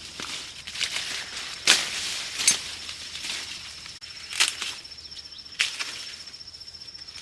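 Dry plant material rustling, with several sharp snaps. A steady, high, pulsing insect trill runs behind it.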